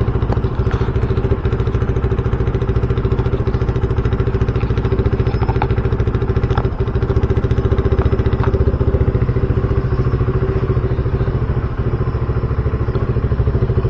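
RUSI Classic 250 motorcycle engine running steadily, a fast, even stream of exhaust pulses under a steady hum, with a few faint clicks.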